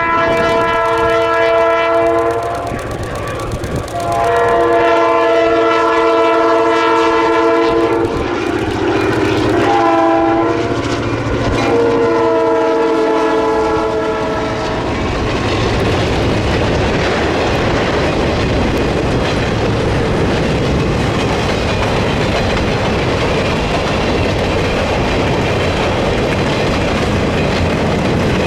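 Locomotive air horn sounding a multi-note chord in four blasts, long, long, short, long: the grade-crossing signal. Then the train rolls past with its wheels clacking over the rail joints.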